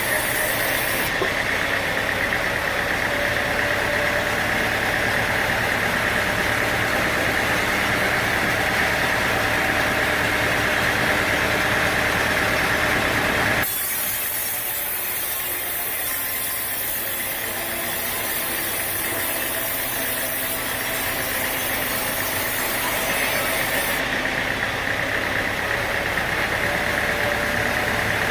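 Sawmill machinery running steadily, a continuous mechanical drone with a strong high hum; the sound changes abruptly about halfway through.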